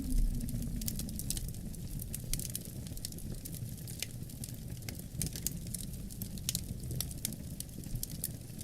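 Wood fire crackling with frequent sharp pops, over a steady low rumble of wind. A howling gust dies away in the first second or so.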